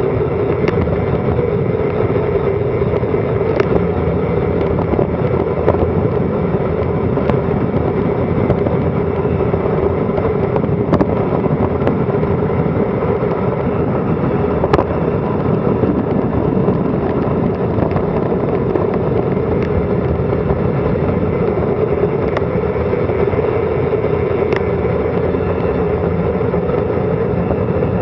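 Steady loud rush of wind over an action camera's microphone during a fast bicycle descent, with tyre and road noise underneath and a scattering of short sharp clicks.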